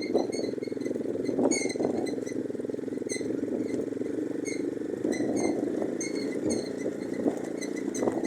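Orion-100 moped's small engine running steadily under way, with short high squeaks or chirps cropping up irregularly every second or so.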